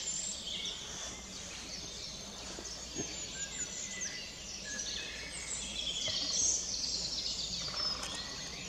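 Woodland birds singing: many overlapping short chirps and trills from several birds at once, over a steady low rumble.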